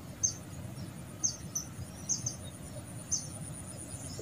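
A small bird chirping: short, high calls about once a second, some in quick pairs, over a faint steady high-pitched insect-like tone.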